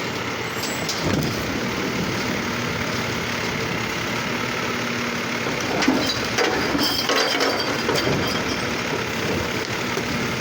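Garbage truck's engine running steadily, with a couple of knocks about six seconds in.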